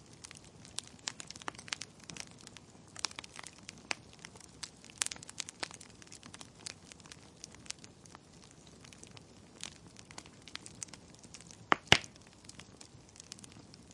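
Logs burning in a fireplace, crackling with irregular sharp pops over a faint hiss, and a louder double pop near the end.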